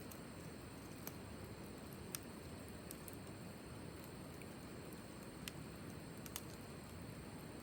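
Wood fire burning, with a low steady rumble and about half a dozen sharp, irregular pops and crackles.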